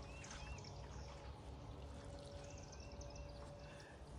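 Diluted fish fertilizer poured onto the soil at the base of a container plant, a soft steady pouring. A bird chirps several times in the background.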